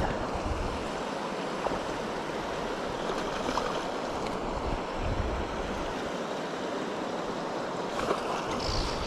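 Mountain stream rushing steadily over rocks, with gusts of wind buffeting the microphone as low rumbles now and then.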